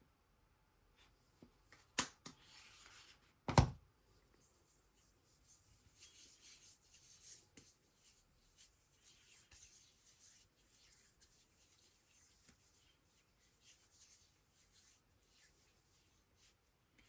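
Quiet handling sounds: a sharp click about two seconds in, a single knock a moment later, then soft, light scratching and rubbing that goes on irregularly.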